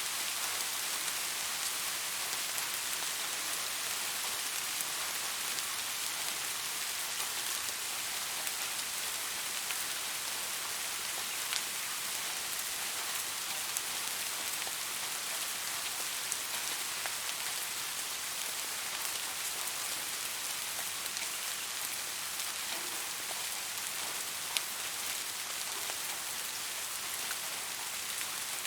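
Steady rain falling on a surface: an even hiss with individual drops ticking, a few louder single drops standing out now and then.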